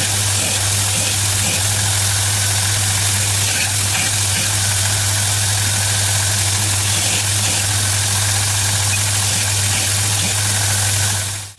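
Home-made 2x72 belt grinder's electric motor running steadily, a constant low hum under an even hiss from the moving belt.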